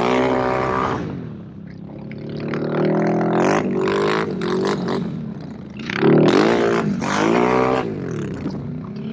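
Can-Am Renegade ATV engine revving hard under throttle, its pitch climbing and dropping several times as the rider gets on and off the gas.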